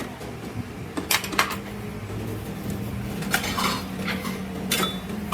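Metal tools and parts clinking and clanking against each other in a series of sharp strikes: two about a second in, then several between three and five seconds in, over a steady low hum.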